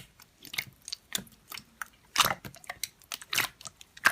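Slime being pressed and poked by fingers: an irregular run of crisp crackles, clicks and squishes, several a second, with a couple of louder squishes.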